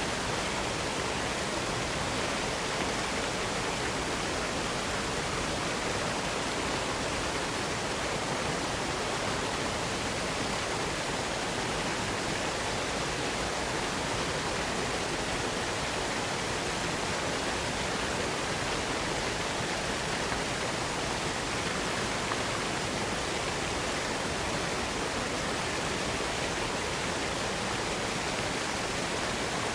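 Waterfall running: a steady, unbroken rush of falling water that does not change.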